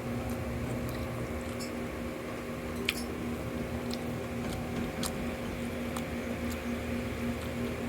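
Close-miked mouth sounds of eating fried chicken intestines with rice: wet chewing and smacking with scattered small crisp clicks, one sharper about three seconds in, over a steady low hum.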